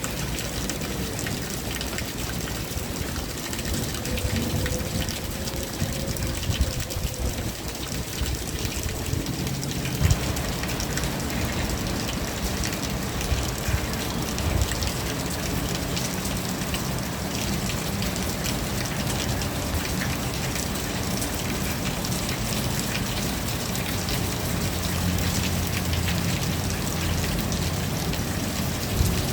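Steady rain falling, with many small drops ticking on surfaces. A low hum comes in about a third of the way through.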